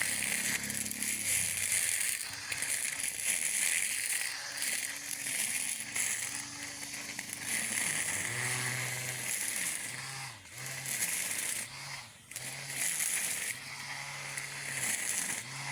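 Cordless battery-powered electric lawn mower running and cutting grass, with a steady hiss and crackling crunch of blades through grass. A low hum comes and goes in short stretches in the second half.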